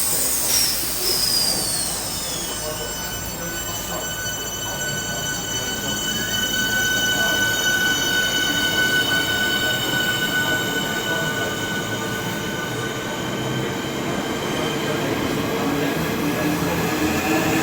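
A train running along the platform with a sustained high-pitched metallic squeal from its wheels and brakes over a steady rumble. It starts suddenly just before, with a squealing tone that falls in pitch over the first couple of seconds, then several steady squealing tones hold throughout.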